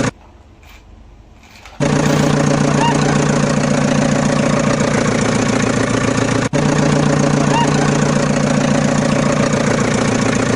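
Tractor engine running steadily with a fast, even chug. It is missing for the first two seconds, comes in abruptly, and cuts out for an instant about six seconds in.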